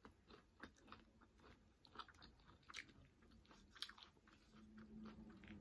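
Faint close-up chewing of crunchy beef nachos: a person's mouth crunching tortilla chips, heard as scattered short, irregular crackles and wet clicks.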